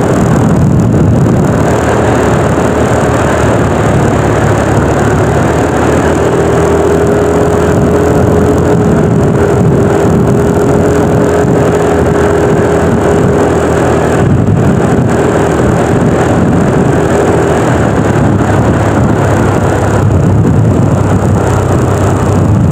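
Yamaha NMAX 155 scooter on the move, its single-cylinder engine running steadily under heavy wind noise on the microphone.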